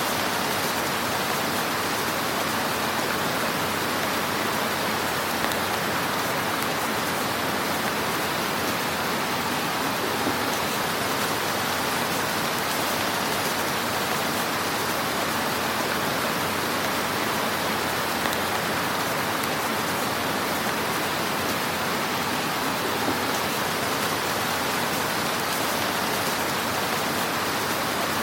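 Fire crackling in a fireplace: a steady, dense hiss of small crackles with a few slightly louder pops.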